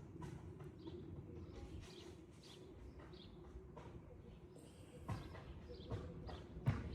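Faint, irregular knocks and clicks of hand tools and metal parts as a new part is worked into a VW T5 engine, with a few louder knocks near the end, over a low steady hum.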